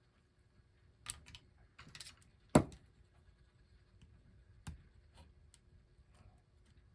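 Sparse clicks and taps of small metal parts and tools being handled while reassembling a record changer mechanism, likely while fitting a C-clip onto the idler wheel; the loudest is a sharp click about two and a half seconds in, with another about a second and a half later.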